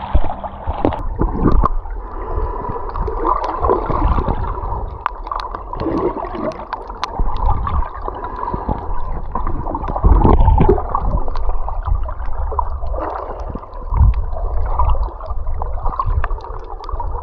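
Sea water gurgling and sloshing around a camera at the surface during snorkelling, with irregular splashes, crackling clicks and several heavy low thumps.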